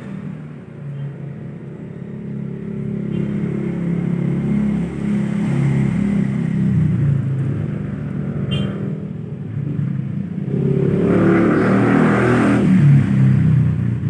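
A motor vehicle engine running close by, its pitch shifting up and down as it revs, growing louder about eleven seconds in.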